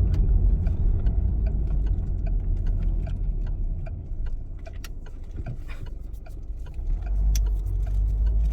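Low rumble of a vehicle driving, heard from inside the cabin, with scattered small clicks and rattles. It eases off in the middle and picks up again about seven seconds in.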